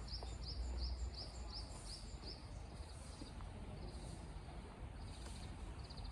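A small bird calling: a quick series of high chirps, about three a second, over the first two seconds, then a few short trills, over faint steady outdoor hiss.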